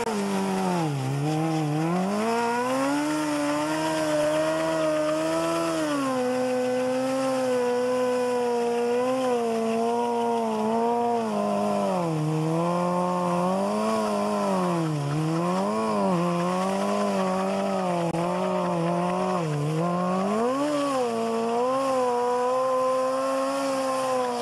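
Honda CBR sport bike engine held at high revs during a burnout, the revs dipping and climbing back again and again, then dropping near the end.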